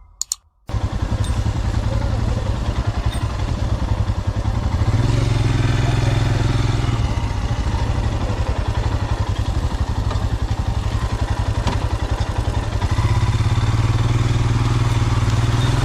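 Motorcycle engine running while riding, a steady pulsing exhaust note. It cuts in abruptly under a second in and grows louder about five seconds in and again about thirteen seconds in.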